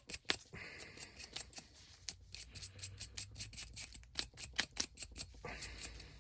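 Quick, even back-and-forth scraping of a furnace flame sensor rod, about five strokes a second, as oxidation and buildup are rubbed off the metal.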